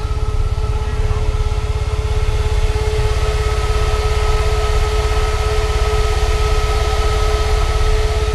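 Car engine idling with a steady low rumble, and a steady high whine running over it.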